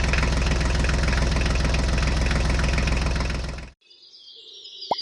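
An engine idling steadily, then cutting off abruptly about three and a half seconds in.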